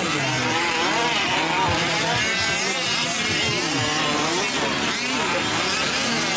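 Several 1/5-scale RC race trucks' small two-stroke gas engines running together, their pitches rising and falling as they rev up and off the throttle around the track.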